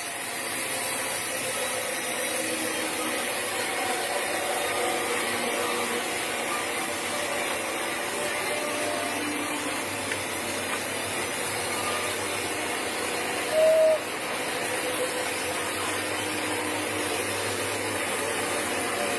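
Sawmill machinery running with a steady, even noise. About two-thirds of the way in, a short, loud single tone sounds for under half a second.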